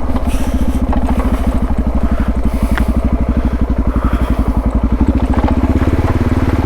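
Suzuki DR650's single-cylinder four-stroke engine running at low revs with a steady, even beat.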